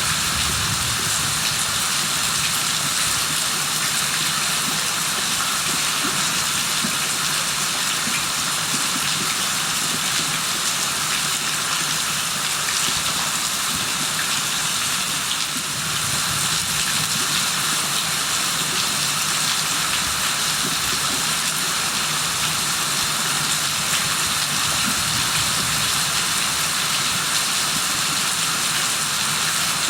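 Steady rain falling, a continuous hiss of drops with fine pattering ticks.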